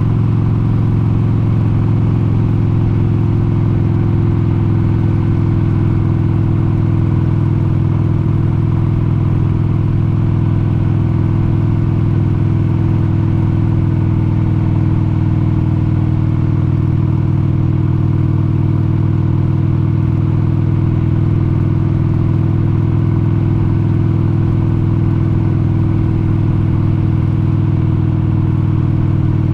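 1996 Harley-Davidson XLH883 Sportster's air-cooled 883 cc V-twin running steadily at a constant cruising speed, holding one even pitch.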